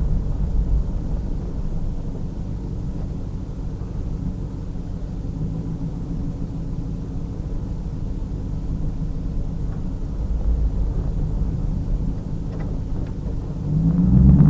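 Pontiac Trans Am Firehawk's stock LS1 5.7-litre V8 running at steady, moderate revs, heard as a low rumble from the back of the car. Near the end it swells and rises in pitch briefly as the throttle is opened, then drops back.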